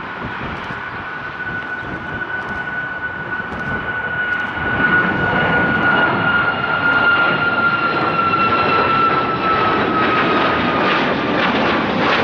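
Jet airliner passing close, its engines running with a steady roar that grows louder about halfway through, and a high whine that slowly falls in pitch. The sound cuts off suddenly at the end.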